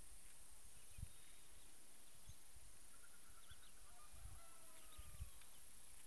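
Faint bird calls: scattered short chirps and a longer falling call about three to four seconds in, over a steady hiss, with a few soft low thumps.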